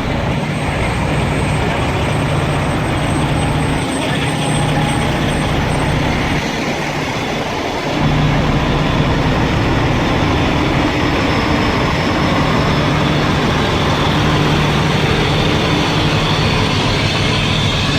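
Fire trucks' engines idling together, a steady low rumble that gets a little louder about eight seconds in.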